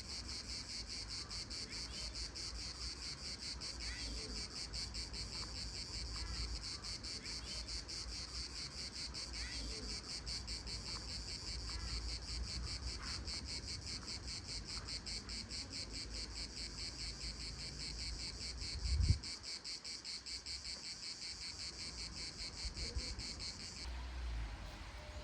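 Cicadas singing in a continuous high, rapidly pulsing buzz that stops abruptly near the end. A single thump comes a little after the middle.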